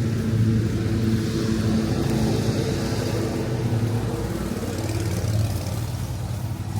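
Car engine running steadily at an even speed, with a hiss of road and wind noise over it.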